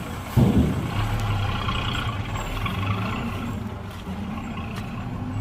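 Heavy diesel earthmoving machinery running steadily with a low engine hum, with one loud clunk about half a second in.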